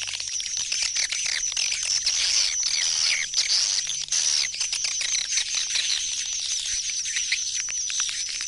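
Swiftlet calls used to lure swiftlets back to a swiftlet house: a dense, overlapping high twittering of many chirps with short falling glides, over a steady high tone and quick clicks.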